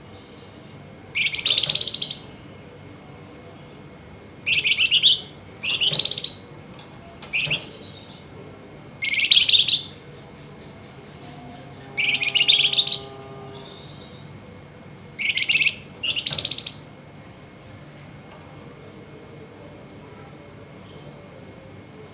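A flamboyan songbird giving its shrill, harsh chattering call ('nyerecet') in about eight short, loud bursts, spaced one to three seconds apart, over a faint steady hum.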